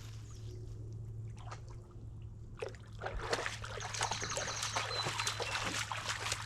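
Water splashing and trickling in irregular strokes, getting busier about halfway through, over a steady low hum.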